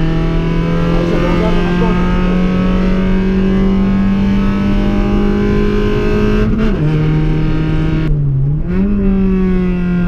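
Car engine heard from inside the cabin on track, revs climbing slowly under load. About two-thirds of the way in the revs drop sharply, dip once more, jump back up, then fall away slowly.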